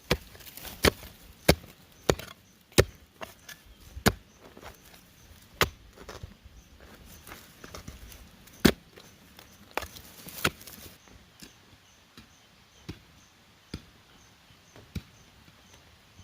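Chopping strikes on bamboo: sharp blows about every two-thirds of a second at first, then further apart, growing fainter after about eleven seconds.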